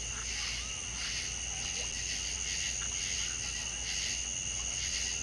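Insect chorus: a steady, shrill trilling in two high pitches that pulses slightly, with a few faint short chirping calls.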